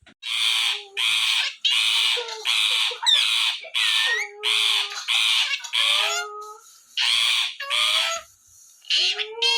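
Rose-ringed (ringneck) parakeet giving a long series of loud, harsh screeches, about two a second, with a short pause near the end.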